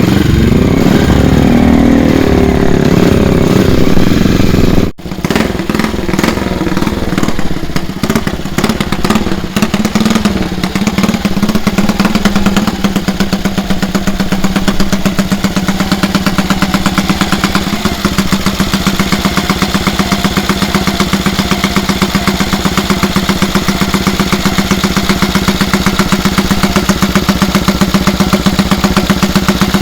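Classic racing motorcycle engine revved up and down. After a cut about five seconds in, a motorcycle engine is blipped a few times, then settles into a steady idle with an even, rapid beat.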